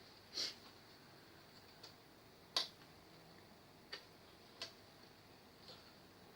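A few short, sharp clicks and taps from small hard parts and tools being handled while working on an LED TV. There are about five, at irregular times, the loudest about two and a half seconds in.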